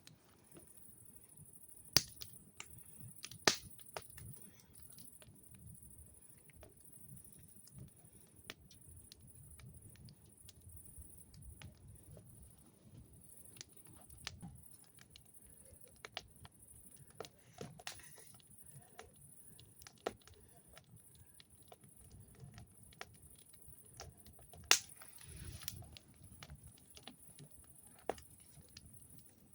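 Wood campfire crackling: irregular sharp pops and snaps, a few of them much louder than the rest.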